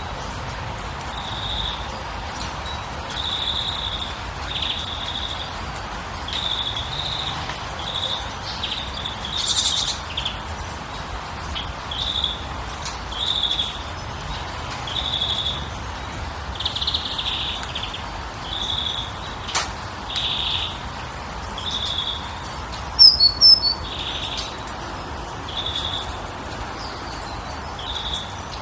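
A bird repeating a short high call about once every second or so, over a steady background hiss. About 23 seconds in there is a brief, louder burst of higher chirps.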